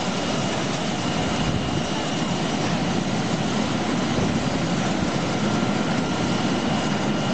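Air-bubble seaweed washing machine running: a steady rushing noise with a faint high, even whine throughout.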